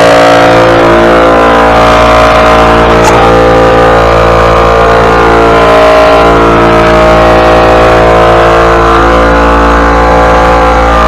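Small gasoline engine running steadily at a constant speed, close and loud.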